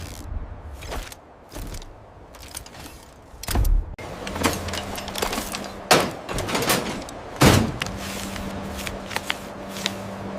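Machine sound effects: several quick sliding, door-like whooshes and clicks, with a steady low hum coming in partway through.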